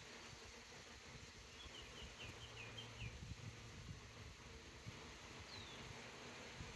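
Faint outdoor ambience: a songbird gives a quick run of about six short high notes about two seconds in and a single short chirp near the end, over a low steady hum from the bee swarm.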